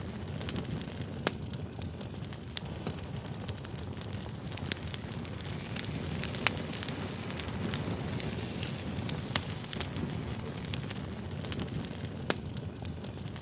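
Firewood burning: a steady low rumble of flame with irregular crackling and sharp pops, a few of them louder than the rest.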